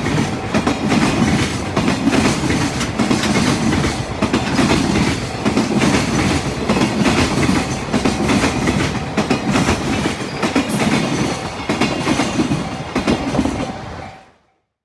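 A train passing close by, its wheels clattering over the rail joints in a steady rhythm. The sound cuts off abruptly near the end.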